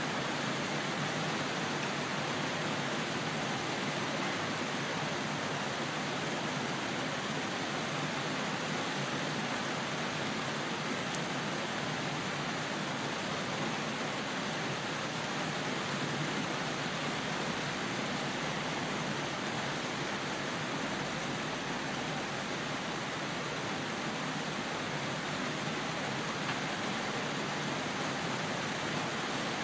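Steady rain falling: an even hiss with no pauses or thunderclaps.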